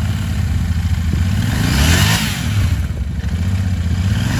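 A Royal Enfield Continental GT 650's parallel-twin engine idling through its megaphone exhausts, blipped once about halfway through so the pitch rises and falls, with a second blip starting near the end.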